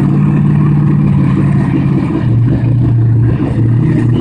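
Drag cars' engines running at the starting line: a loud, steady drone whose pitch drops a little about halfway through.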